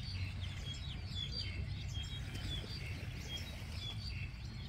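Small birds chirping: many short, high chirps, a few each second, over a steady low rumble.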